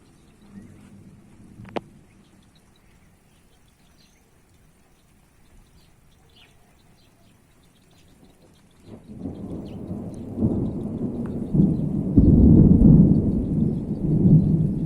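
Thunder rumbling in a thunderstorm: a low roll starts about nine seconds in, builds to its loudest a few seconds later and is still rolling at the end, over light rain ticking.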